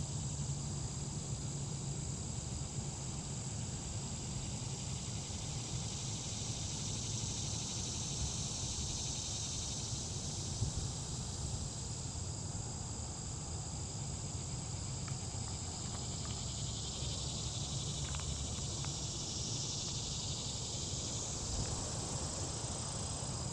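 Steady, high-pitched chorus of insects, with a low steady hum underneath.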